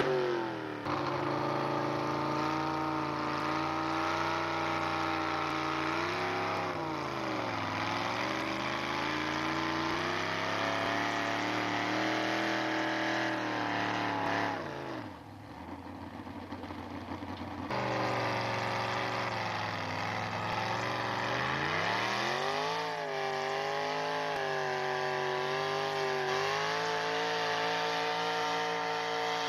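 A pulling truck's engine running hard at high revs under load. The revs sag and climb back up three times, and the sound drops away briefly before cutting back in abruptly.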